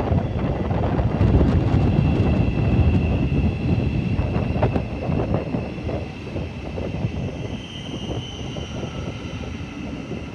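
Thameslink Class 700 electric multiple unit pulling out and running past, loudest in the first few seconds and then slowly fading, mixed with heavy wind buffeting the microphone.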